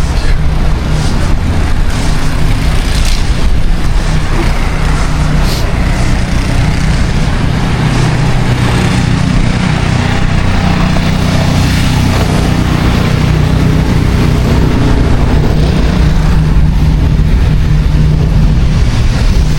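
A motor vehicle's engine running close by: a steady low rumble with street traffic noise.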